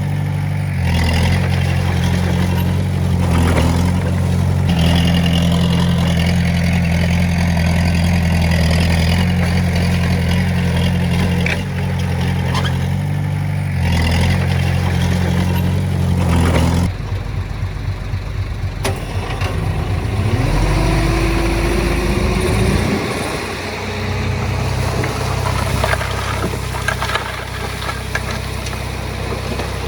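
Heavy-equipment diesel engine running steadily. About seventeen seconds in, the sound changes abruptly to a rougher, lower rumble with a rising whine, then settles into a different steady engine note.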